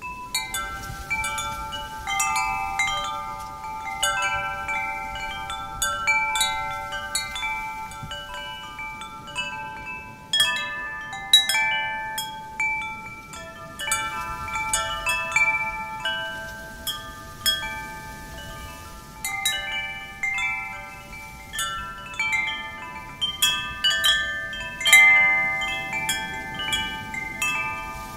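Metal wind chimes ringing in irregular clusters of overlapping, slowly fading tones as gusts knock the tubes together, with a faint hush of wind beneath.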